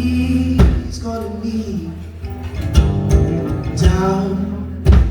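A live band plays a slow song with bass guitar, drums, keyboard and electric guitar. A steady bass line runs underneath, with heavy drum or cymbal accents roughly every two seconds.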